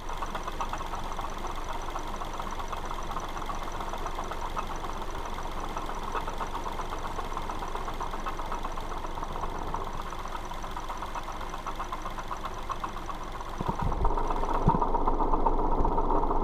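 Mazda2 engine idling with a fast, steady metallic knocking from the accessory belt drive, which the owner takes for a failing water pump. It gets louder about fourteen seconds in, with a few dull thumps.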